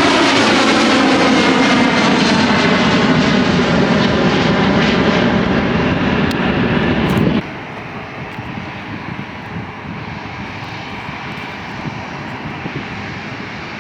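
Jet aircraft passing close by, its engine whine gliding down in pitch as it goes past. About halfway through the sound cuts off suddenly to a quieter steady rush of wind on the microphone.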